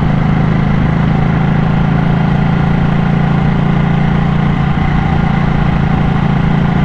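Ducati motorcycle engine running at a steady, unchanging pitch while the bike is ridden along.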